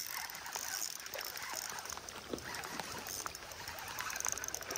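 Rain falling on open water: a steady hiss dotted with many small, irregular drop ticks.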